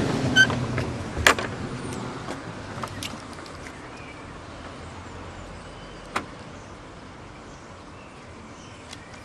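Inside a Ford Ka: a short electronic beep, then a sharp click, while the car's low background hum dies away over the first few seconds; another single click comes about six seconds in.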